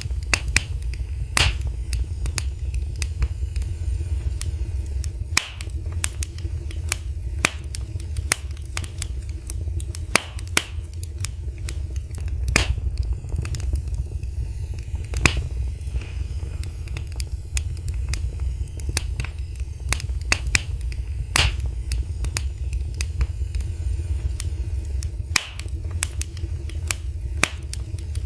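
Wood fire crackling in a fireplace: irregular sharp snaps and pops several times a second, a few louder pops standing out, over a steady low rumble.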